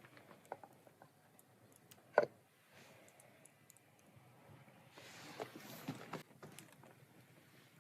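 Scattered light clicks and knocks, with one sharp knock about two seconds in and a soft rustling hiss around five to six seconds.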